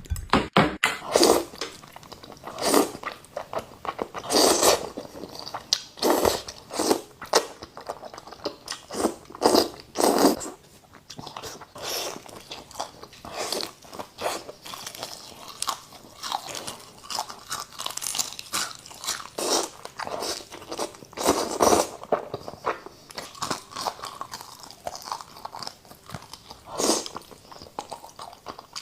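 Noodles being eaten: irregular, repeated wet chewing and slurping sounds, one after another, with short gaps between mouthfuls.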